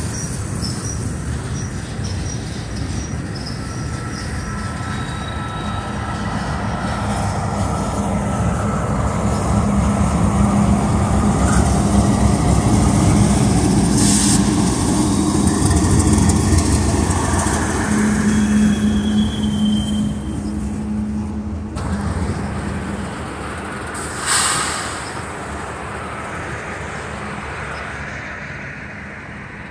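Diesel freight locomotives, a CSX unit in blue Conrail heritage paint among them, running past with engines droning and freight cars rumbling over the rails, loudest as the locomotives go by around the middle. Faint wheel squeal on the curve, and a short burst of hissing noise about 24 seconds in.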